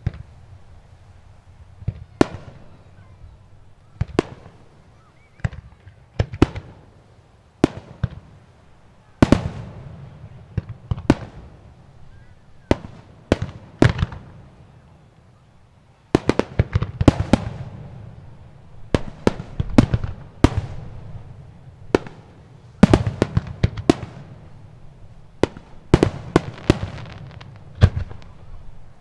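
Aerial fireworks shells bursting one after another, single booms at first and then rapid clusters of bangs, each trailing off in echo.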